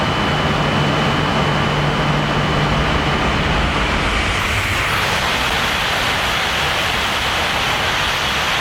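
Tohoku Shinkansen train passing through a station at speed: a loud, steady rush of air and wheel noise with a thin high whine running through it.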